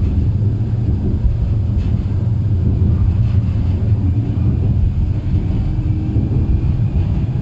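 Tram running along the track: a steady low rumble.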